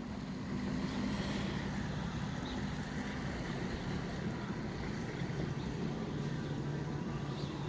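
Jet ski engine running steadily, a low even hum that picks up slightly about a second in.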